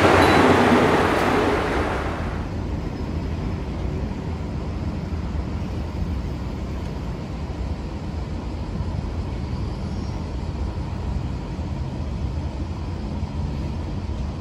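Aso Boy! diesel railcar train running past on the platform track, a loud rush of wheels and engine that cuts off about two seconds in. A steady low rumble of outdoor traffic noise follows.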